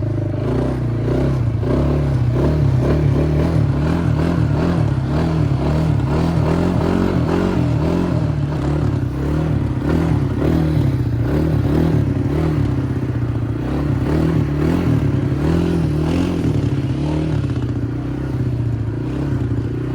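Four-wheeler (ATV) engine running while riding, its pitch rising and falling over and over as the throttle is worked.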